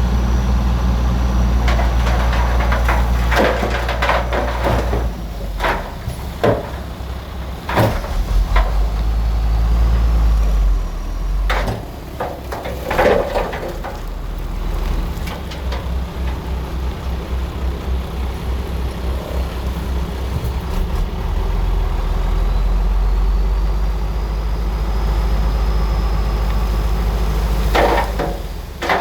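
Bulldozer's diesel engine running heavily, its low drone rising and falling, with repeated clanks and knocks from the machine at work.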